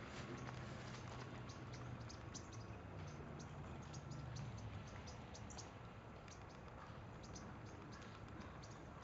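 Faint, quick high chirps of small birds, several a second and irregular, over a low steady hum.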